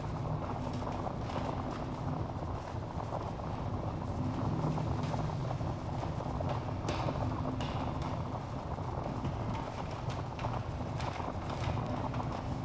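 Wood fire burning in a fireplace: a steady low noise of the flames with scattered sharp crackles and pops from the burning logs, a few of them louder around the middle and near the end.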